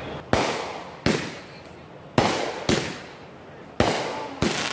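Aerial fireworks bursting overhead: six sharp bangs, irregularly spaced about half a second to a second apart. Each bang dies away in a short echoing tail.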